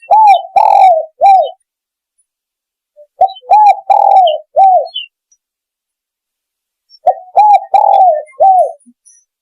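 Spotted dove cooing its song as a hunting lure: three phrases a few seconds apart, each of about four short coos, the second coo longer and rougher than the others.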